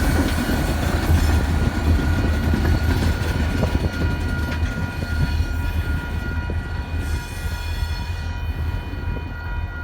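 Diesel locomotives of a shunting freight train running with a deep steady rumble, fading gradually as they move off. Several thin, steady high-pitched tones ring over the rumble throughout.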